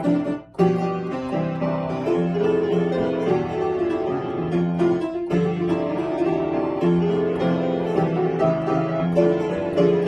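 Solo piano playing a melodic piece over a repeating bass accompaniment, with a brief break about half a second in.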